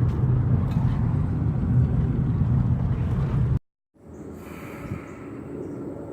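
Car engine and road rumble heard from inside a moving car, cut off suddenly about three and a half seconds in. After a moment of silence comes a much quieter steady outdoor background.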